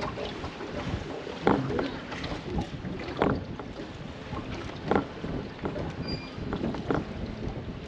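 Wind noise on the microphone and water around a small fishing boat, broken by four or five sharp knocks spaced a second or two apart.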